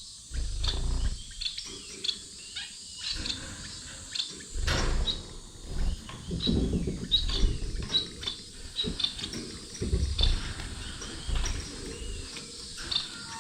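Small cage finches (Gouldian finches, society finches and canaries) giving many short, high chirps and call notes, over repeated low rustling and bumping close to the microphone.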